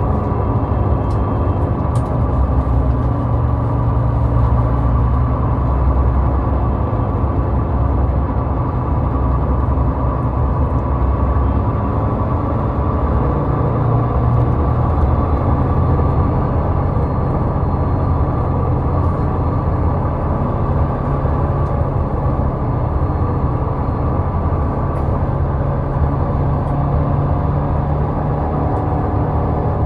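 Steady road and engine noise of a car driving at highway speed: a constant low rumble that does not change across the stretch.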